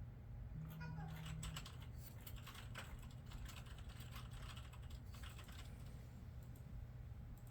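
Computer keyboard typing: a quick run of keystrokes starting about a second in and lasting some four seconds, then a few scattered clicks.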